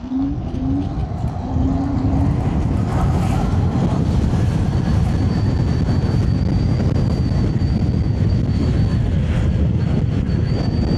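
Wind buffeting the action camera's microphone as an electric scooter is ridden at speed, getting louder over the first two seconds and then holding steady. A few short, low rising tones come near the start, and a faint, steady high whine runs from about four seconds in.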